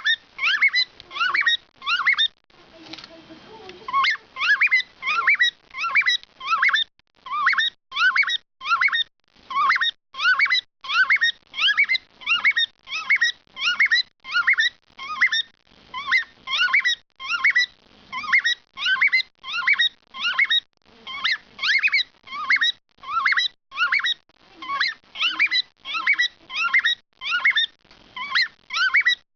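Male cockatiel singing: a long run of short, rising whistled notes, two to three a second, with a brief break a few seconds in.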